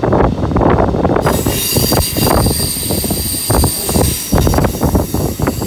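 A train running on the rails with a loud, uneven rumble and clatter. A little over a second in, a high-pitched metallic squeal of several steady tones sets in and holds.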